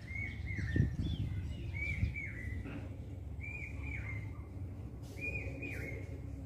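A bird chirping in short clusters of quick notes, a cluster about every second and a half, over a low rumble. Two dull thumps come in the first two seconds.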